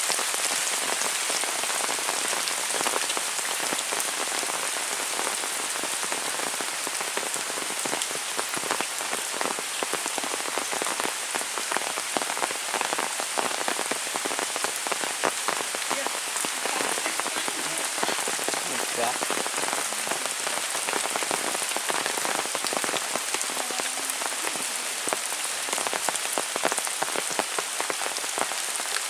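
Heavy rain falling steadily: a dense, even hiss with countless individual drops striking close by.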